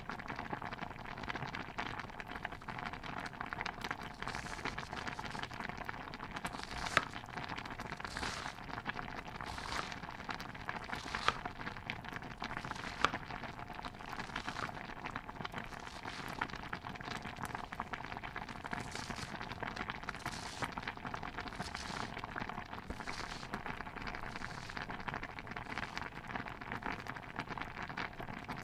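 Stew bubbling in a pot over a crackling fire: a steady crackling hiss with soft swells every second or two. Three sharp clicks stand out in the first half.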